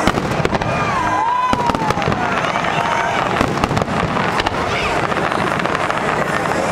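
Fireworks going off in a dense run of sharp bangs and crackles, with a falling whistle about a second in, over the murmur of a crowd.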